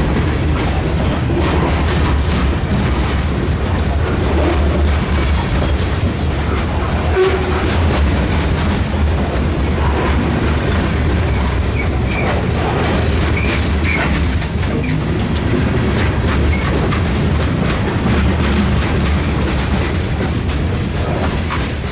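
A train rolling past at close range: a steady heavy rumble with the wheels clattering over the rail joints, and a few brief higher squeals about twelve to fourteen seconds in.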